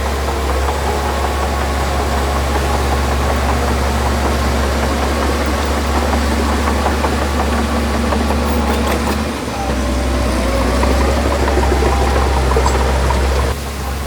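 Diesel engine of heavy earthmoving machinery running steadily, with a brief dip about two-thirds of the way in and a drop in level near the end.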